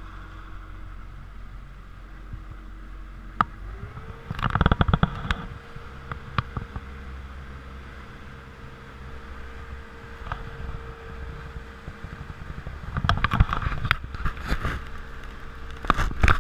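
Motorboat engine running steadily, its pitch rising about four seconds in as the boat speeds up and then holding, with loud bursts of rushing noise that come and go.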